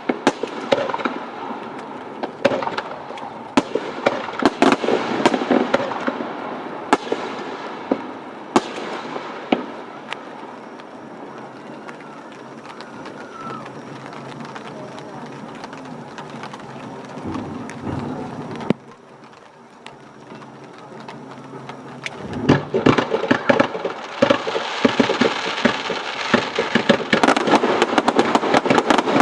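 Aerial fireworks bursting and crackling: many sharp bangs for the first ten seconds or so, a quieter lull in the middle, then dense crackling again for the last several seconds.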